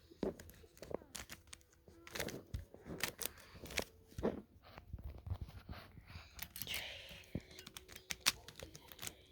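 Rubik's cube being turned fast by hand: quick, irregular plastic clicks and clatters of the layers snapping round.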